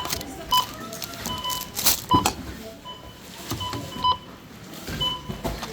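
Supermarket checkout barcode scanners beeping repeatedly at irregular intervals, with knocks and clatter of goods being handled.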